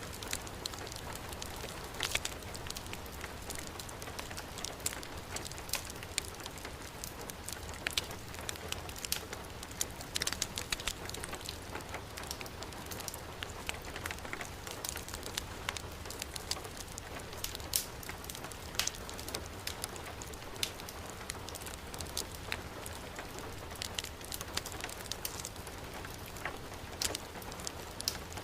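Heavy rain falling steadily, mixed with a wood fire crackling, with many small sharp pops scattered throughout.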